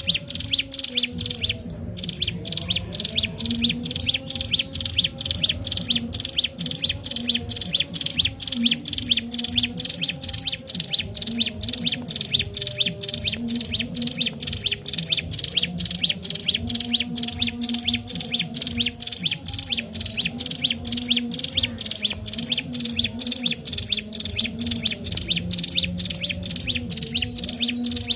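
A ciblek gunung, a mountain prinia, calls nonstop in fast, sharp, high chirps at about three a second, with one brief pause about two seconds in.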